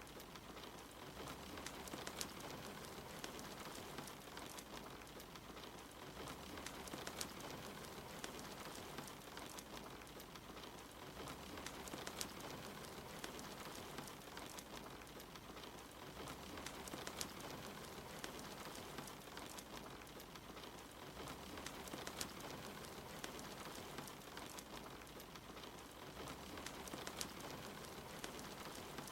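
Soft, steady rain mixed with a fireplace crackling, its occasional sharp pops standing out above the hiss of the rain.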